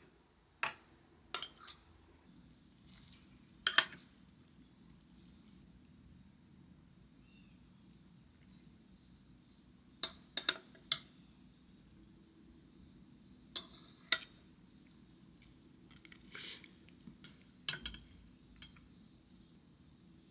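Utensils clinking against dishes in short, separate strikes, often two in quick succession and about a dozen in all, with long pauses between them. A faint steady high-pitched drone runs underneath.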